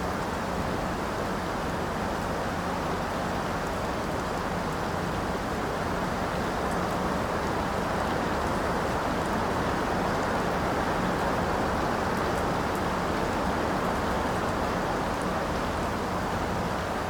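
Steady rain: an even, unbroken rush of falling rain with a few faint drip ticks.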